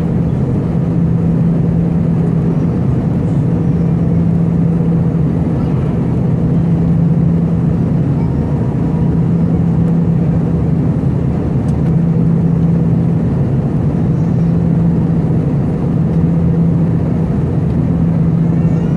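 Airbus A319 cabin noise: a steady roar of engines and rushing air with a constant low hum.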